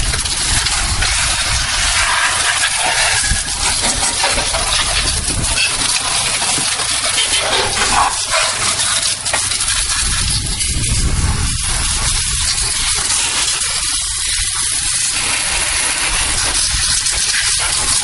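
Garden hose on a jet-spray nozzle blasting water over an engine compartment, a steady loud hiss and splatter as the spray strikes the engine parts. It is washing out the degreaser.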